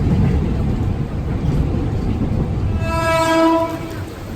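KRL Jabodetabek electric commuter train running with a steady low rumble. About three seconds in, its horn sounds once for about a second, a single steady note, and the rumble eases off near the end.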